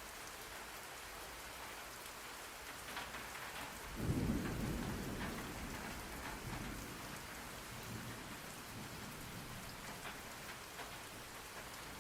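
Steady rain falling, with scattered drop ticks. About four seconds in, a low roll of thunder swells up and fades away over the next few seconds.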